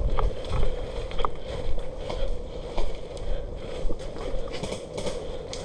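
Low, fluctuating rumble of wind and movement on the microphone, with a steady mid-pitched hiss and a few faint scattered clicks.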